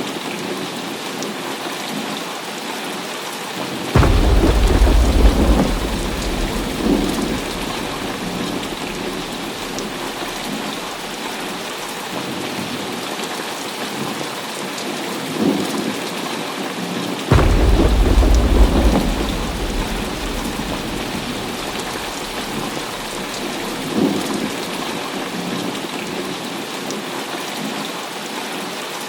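Heavy rain falling steadily, with thunder. Two loud claps break in suddenly, about four seconds and seventeen seconds in, each followed by a deep rumble lasting a couple of seconds. Fainter rumbles come in between.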